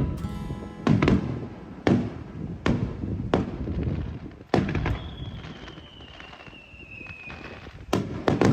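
Aerial fireworks shells bursting in a series of about seven booms at uneven intervals, each with an echoing tail, with a long whistle falling slightly in pitch about halfway through.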